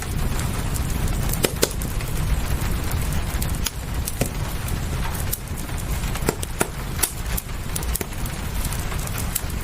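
Wood fire crackling, with irregular sharp pops scattered over a steady low rumble and hiss of rain.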